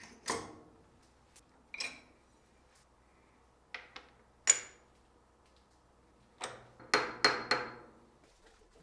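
Steel parts and tools clinking as they are handled and set down: scattered sharp metallic clinks, each with a brief ring. The loudest comes about halfway, and a quick run of three follows near the end.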